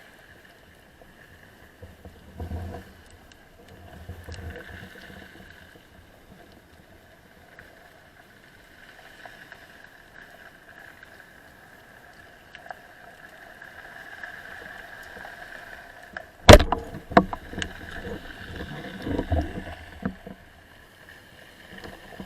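Muffled underwater sound with a steady hum. About sixteen seconds in comes a single sharp, loud crack, taken here for a speargun shot, followed by a few seconds of knocks and rattles.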